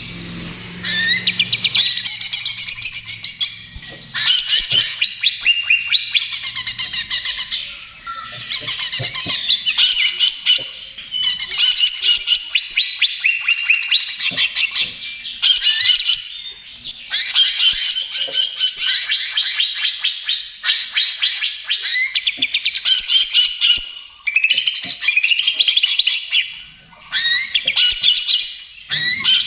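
Cucak ijo (greater green leafbird) singing a loud, fast, near-continuous song of whistles and rapid rattling trills, in phrases broken by brief pauses.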